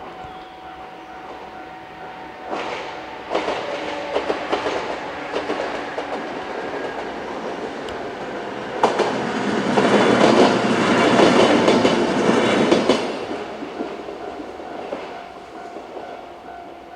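A level-crossing warning bell rings a steady two-tone alarm. A JR 103 series two-car electric train then passes over the crossing, its wheels clacking over the rail joints; it is loudest about ten to thirteen seconds in and fades away while the bell keeps ringing.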